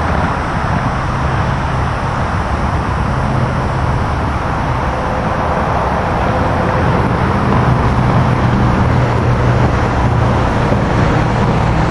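SEPTA regional rail electric multiple-unit train (Silverliner IV cars) pulling into the station: a steady rolling rumble with a low hum.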